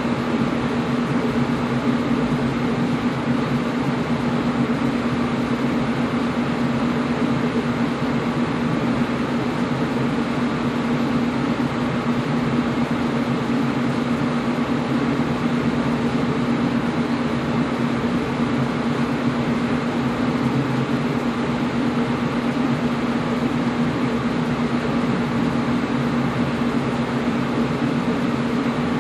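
Air conditioner running steadily: an even rush of air under a constant low hum, unchanging throughout.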